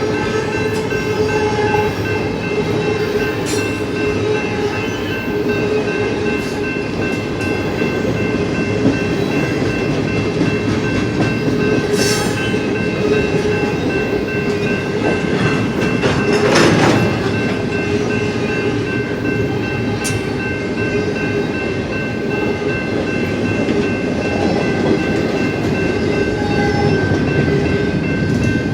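Union Pacific intermodal freight train rolling past: a steady rumble with wheel clatter and a steady high ringing from the wheels on the rails. There is a louder surge about 16 seconds in.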